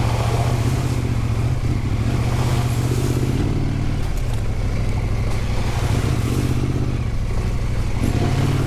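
Husqvarna Norden 901's parallel-twin engine running steadily under load, the revs rising and falling a little as the bike is ridden through mud.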